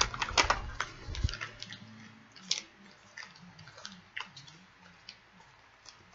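Crunchy snack being chewed close to the microphone: a quick run of crisp crunches in the first half second, then scattered softer crunches and clicks.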